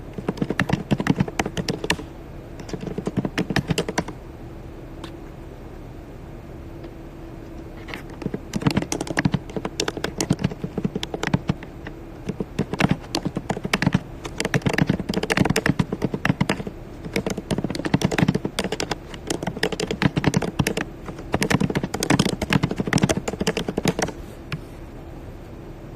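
Typing on a keyboard in quick runs of key clicks, pausing for a few seconds before going on, over a steady faint hum.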